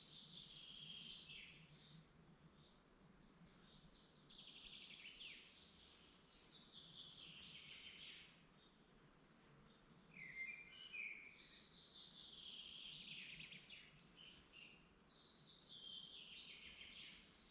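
Faint birdsong: a songbird repeats a trilled phrase that falls in pitch, each lasting a couple of seconds, every few seconds, with a short lower twitter from another bird about ten seconds in, over a faint steady hiss of background noise.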